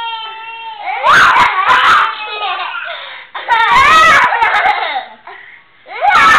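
Young child crying and screaming, loud and high-pitched, in several separate outbursts, upset and angry.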